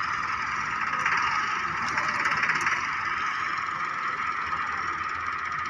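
Tractor engine running hard under load, a steady unbroken noise.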